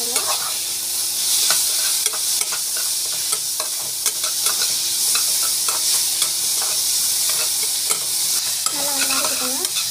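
Chopped onions and tomatoes sizzling as they fry in oil in a metal pot, with a spatula scraping and clicking against the pot as they are stirred.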